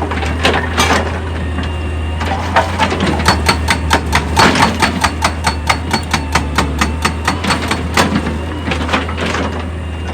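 A heavy machine's engine runs steadily under a stream of sharp, irregular clacks and knocks of rock on steel, several a second, busiest in the middle.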